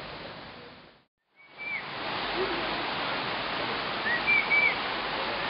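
A steady rushing background noise like running water, with a few short, high bird chirps, the loudest a quick group of three about four seconds in. The sound drops out briefly about a second in and fades back up.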